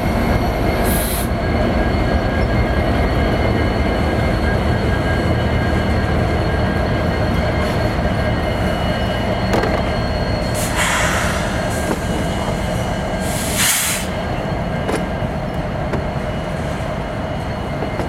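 Freight train rolling past close by: a steady heavy rumble of wheels on the rails with thin, steady squealing tones over it. Short hissing bursts come about a second in, around eleven seconds and again just before fourteen seconds.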